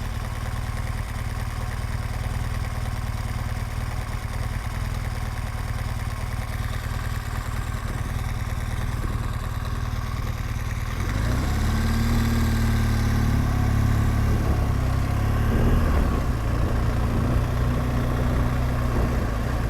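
BMW R1200GS Adventure's flat-twin boxer engine running as the motorcycle is ridden: a steady low drone at first, then from about halfway louder, with an engine note that rises and falls.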